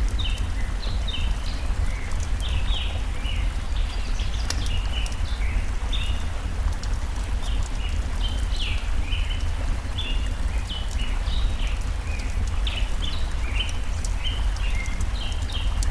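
Layered forest ambience: birds chirping in many short, quick notes throughout, sharp crackles and pops of a burning wood fire, over the steady low rush of a flowing stream.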